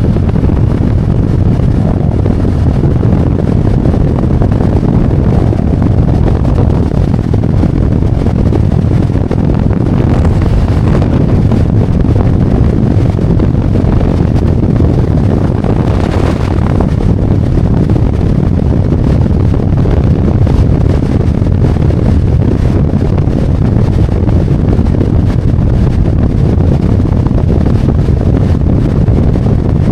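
Harley-Davidson Road Glide's V-twin engine running steadily at cruising speed, with wind rushing over the microphone. A brief swell of rushing noise comes about halfway through.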